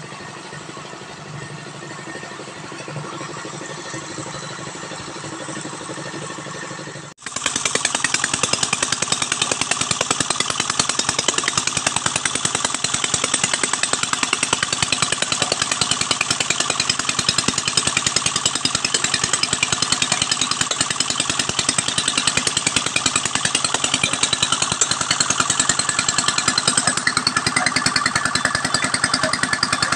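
Engine-driven palm fruit pressing machine running: a steady, quieter machine hum for about seven seconds, then, after an abrupt cut, a louder engine with a fast, even pulse.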